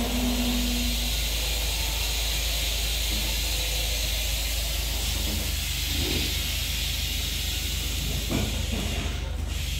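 Steady hiss of air from a standing passenger train, over a constant low hum, the hiss fading shortly before the end.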